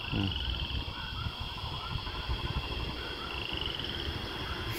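Birds singing: a short arching note repeated over and over, with a fast, slightly rising trill at the start and again about three seconds in, over a low rumble.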